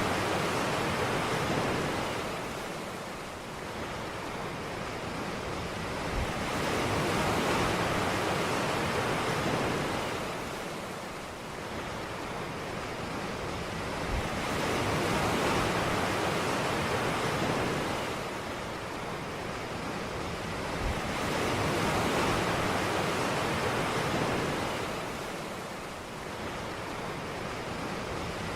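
Ocean waves breaking on a beach, a steady wash of surf that swells and recedes about every seven or eight seconds.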